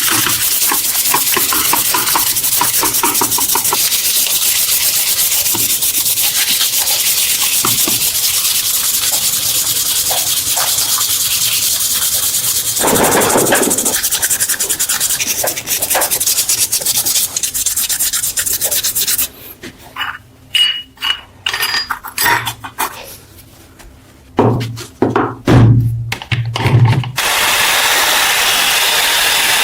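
Electric power tool abrading metal, sanding or brushing off rust, with a steady hiss. About two-thirds through it stops, leaving a few seconds of clicks and knocks from handling the parts, then starts again near the end.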